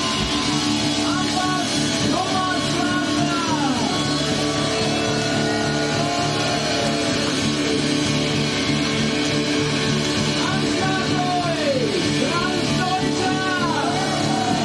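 Live rock band playing loud, with distorted guitars over bass and drums. Two passages of arching, bent high notes ride over the band, one in the first few seconds and one near the end.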